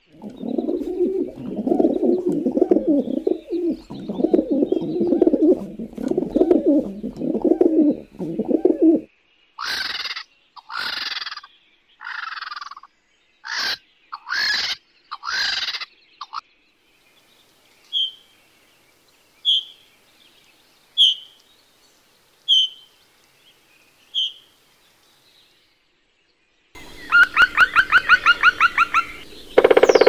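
Domestic pigeon cooing in a run of low repeated coos for about nine seconds, followed by other bird calls: seven loud harsh calls, then five short high chirps about a second and a half apart, then a fast rattling call near the end.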